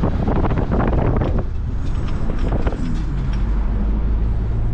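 Steady engine and road noise of a car being driven, heard from inside the car.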